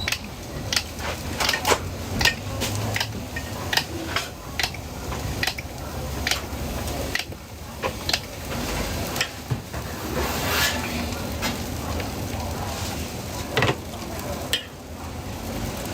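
Food sizzling in a hot pan while a metal utensil repeatedly clinks and scrapes against it as the food is stirred, with irregular sharp clacks throughout and a louder burst of sizzling about ten seconds in.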